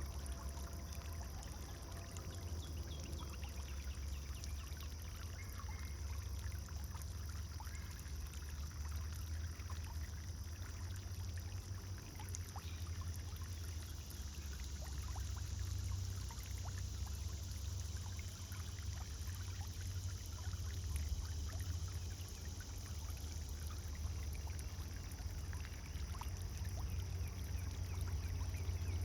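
Pond fountain splashing and trickling steadily, with a steady low rumble underneath.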